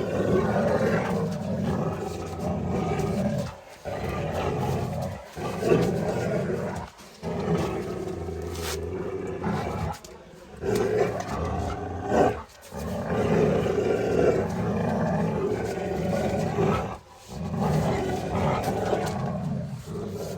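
Boerboel growling in long throaty stretches, broken by short pauses every one to two seconds.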